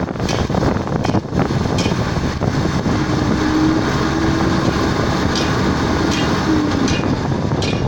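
Heavy cargo-handling machinery running with a steady, loud noise; a single held mid-pitched tone sounds over it from about three seconds in until about six and a half seconds.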